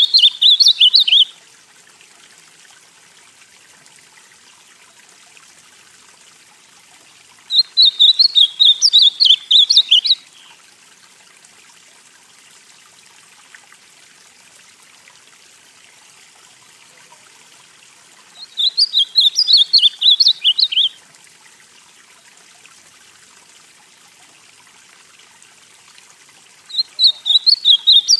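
Ultramarine grosbeak (azulão, Cyanoloxia brissonii) singing: short, rapid warbled phrases of two to three seconds, repeated about every ten seconds, with a faint steady hiss between them.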